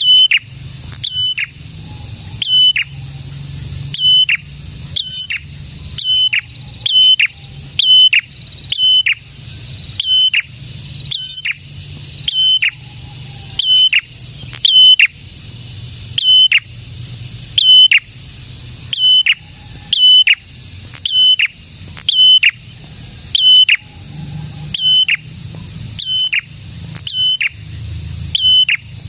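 A prenjak (prinia) singing energetically in a long repeated series. It gives about one sharp note a second, often in pairs, and each note is a short high whistle that drops steeply at its end. A steady high hiss runs underneath.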